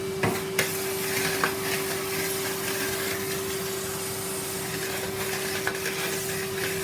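Numatic Henry cylinder vacuum cleaner running with a steady hum and hiss of suction, with a few sharp clicks of debris or the nozzle in the first second and a half. It sounds a bit full: its bag needs changing.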